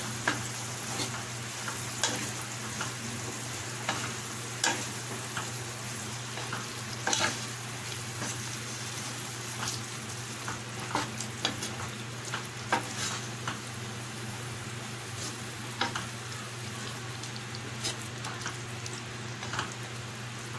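Mutton heart pieces frying in masala in a stainless steel pan, a steady sizzle, while a wooden spatula stirs them, scraping and knocking against the pan in irregular strokes.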